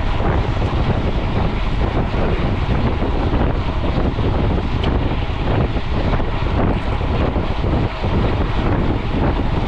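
Steady wind rush and buffeting on an action camera's microphone while a mountain bike is ridden at speed.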